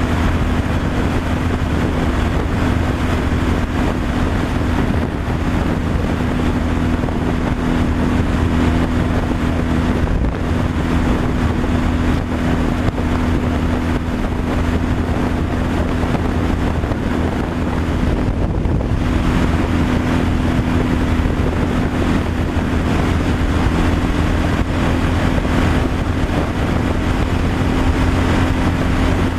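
Truck engine running steadily on the road, a continuous drone with road and wind noise. Its pitch shifts slightly about two-thirds of the way through.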